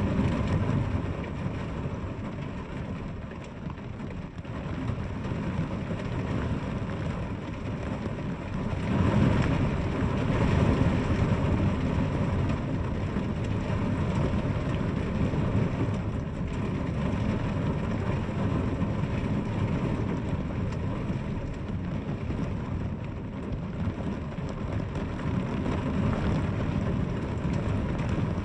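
Steady rain falling, a continuous wash of noise with a low rumble underneath, growing louder for a few seconds about nine seconds in.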